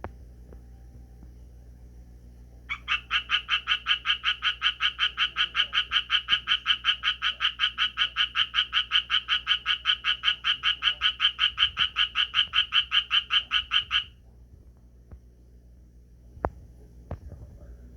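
Japanese tree frog calling: a long run of quick, evenly spaced pulses, about five a second, lasting some eleven seconds and stopping abruptly. Two short clicks follow near the end.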